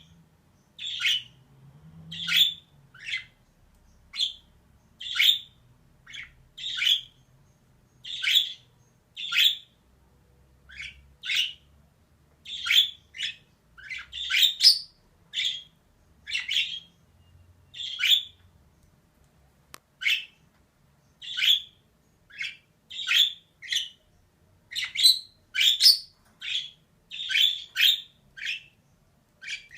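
Female budgerigar chirping in short calls, about one a second, some coming in quick pairs.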